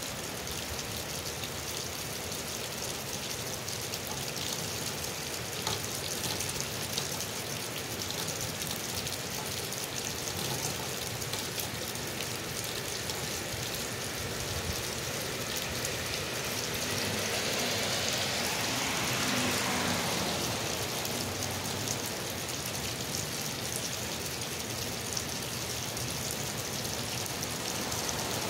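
Steady rain falling on pavement, with water gushing from a roof downspout onto the ground. The hiss swells for a few seconds about two-thirds of the way in.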